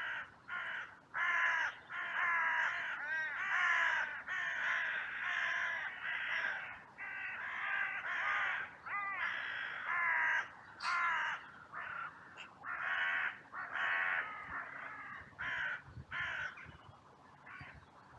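Many crows cawing at once in a dense, overlapping chorus of harsh caws, thinning out to a few scattered caws near the end.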